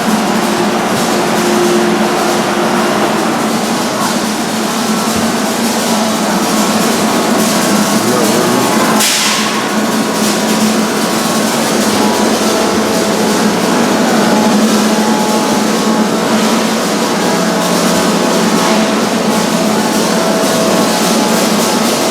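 A steady machine hum with a noisy background, broken once about nine seconds in by a short burst of hiss.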